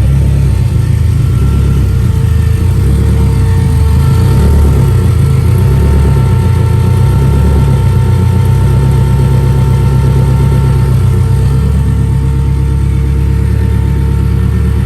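Honda Del Sol's engine running loud and steady through a newly built full 4-inch exhaust: a deep, low drone with slight rises and falls in level.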